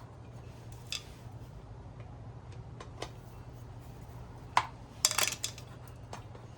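Small metal washers clinking and clicking as they are gathered up by hand: a few scattered clicks, the loudest cluster about five seconds in, over a steady low hum.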